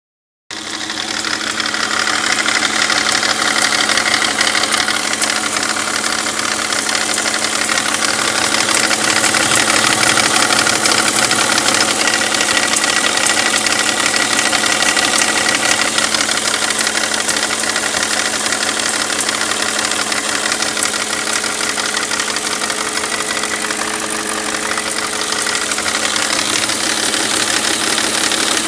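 Volkswagen Touareg 4.2 V8 engine idling while warming up, with a steady fast ticking knock running through the engine noise. This is the warm-up noise and knock the owner is concerned about.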